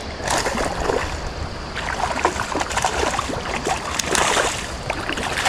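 Water splashing and sloshing in a creek as a hooked smallmouth bass is fought and brought in, in irregular splashes over a steady rush of moving water.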